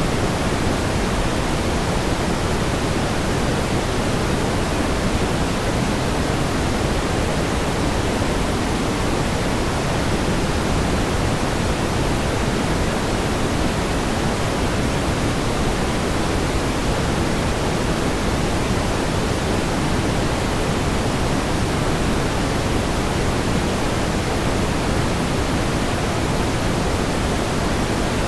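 Steady pink noise: an even, unchanging hiss weighted toward the low end, with no events or variation.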